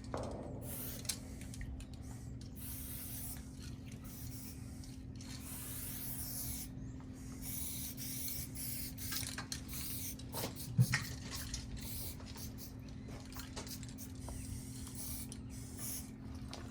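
Aerosol spray-paint can hissing in a run of short and longer bursts with brief gaps between them, over a steady low hum, with a single knock about two-thirds of the way through.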